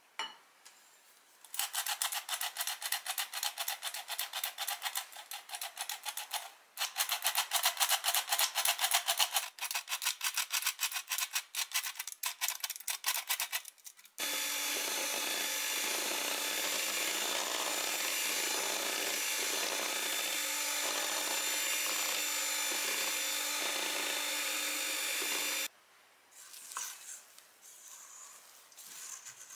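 Fast, even rhythmic scraping strokes for about twelve seconds, then a small electric kitchen appliance's motor running steadily for about eleven seconds before cutting off suddenly.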